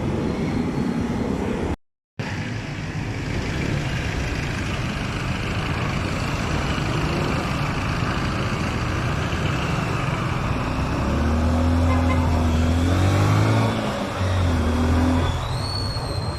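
Honda XR150L single-cylinder motorcycle being ridden in traffic: wind and road rush over the engine note. The sound cuts out briefly about two seconds in, and the engine pitch rises and falls from about eleven seconds in as the bike speeds up and slows.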